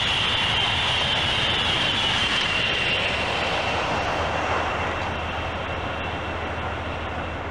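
Intercity Express (ICE) high-speed electric train running by at about 250 km/h: a steady rush of wheel and air noise with a high whine that falls slightly in pitch. The noise then fades over the last few seconds as the train draws away.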